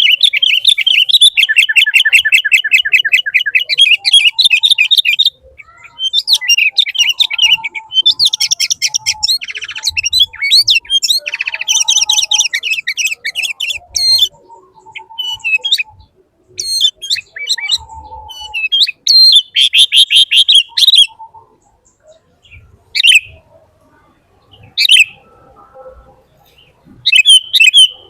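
A bird calling loudly in bouts of rapid trills and chirps, broken by short pauses, then only scattered single chirps over the last several seconds.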